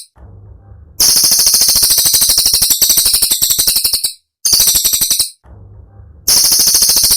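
Cililin songbird giving fast, sharp, high-pitched rattling trills (the 'tembakan' bursts prized in masteran recordings). The trill starts about a second in and breaks off a little after the middle. After a quieter stretch with a faint low hum, it starts again near the end.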